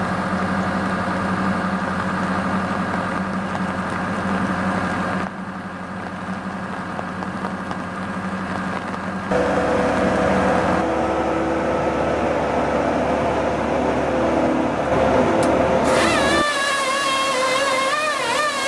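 Heavy machine running steadily: engine and hydraulic drone of an excavator working a firewood processor head. The sound shifts abruptly three times, and near the end a higher whine wavers up and down in pitch.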